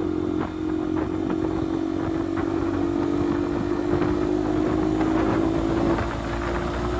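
Single-cylinder engine of a Bajaj Pulsar NS200 with an aftermarket Akrapovic exhaust, running at a steady engine speed; the tone eases slightly near the end.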